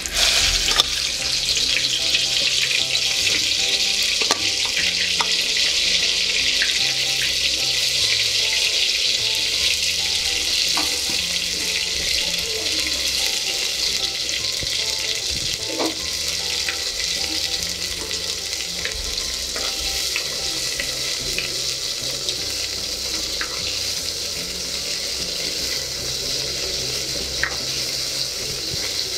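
Marinated prawns shallow-frying in hot groundnut oil in an earthenware pot. A loud, steady sizzle starts sharply as they go in and eases slowly, with scattered small pops and spits.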